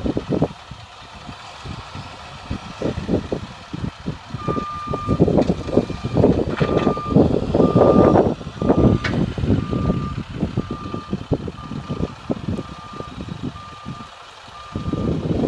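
An International snowplow truck's reverse alarm beeping about once a second, starting about four seconds in, over loud irregular rumbling noise from the truck at work.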